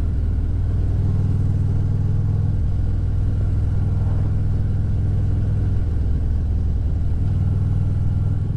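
Motorcycle engine running at riding speed, a steady low drone whose pitch shifts a few times as the throttle or gear changes.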